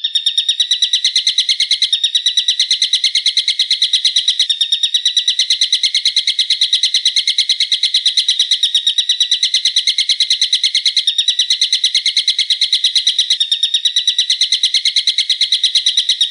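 A bird's sharp call repeated very fast, several notes a second, in one unbroken loud string, with small seams every few seconds.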